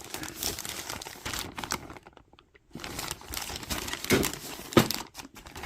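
Clear plastic bag crinkling and rustling as it is handled, in irregular bursts with a short pause about two seconds in.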